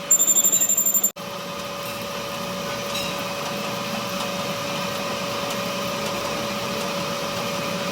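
A workshop machine running steadily with a constant hum. It is preceded by a brief louder pulsing high whine that cuts off abruptly about a second in.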